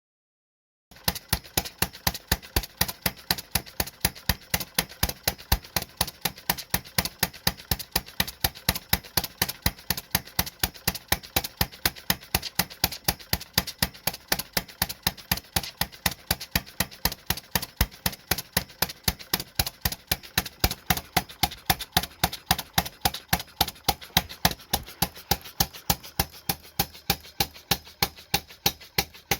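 Model paradox engine, a non-compression gas engine with flame ignition, running steadily with a sharp pop at each firing stroke, about three to four a second, starting about a second in.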